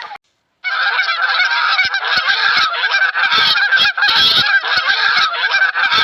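A flock of birds calling loudly all at once, many overlapping calls. It starts after a brief silent gap just after the beginning.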